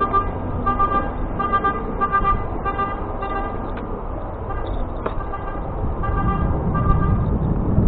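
Electronic beeping alarm repeating about three beeps every two seconds, typical of a work vehicle's reversing alarm, over traffic rumble. The beeping stops for a couple of seconds midway, and the low rumble gets louder near the end.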